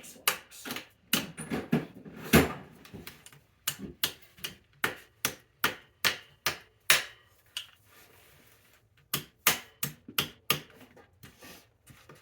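Repeated sharp knocks of a tool striking a bicycle part, about one or two a second with a short lull in the middle, the strikes fainter near the end.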